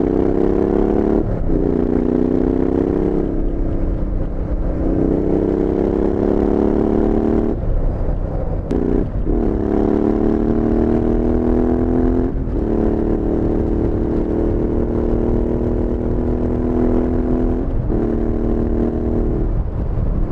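Royal Enfield Interceptor 650's parallel-twin engine running through a Powerage Performance slip-on exhaust while the bike is ridden under throttle. The note climbs gently in long stretches, with a short dip every few seconds.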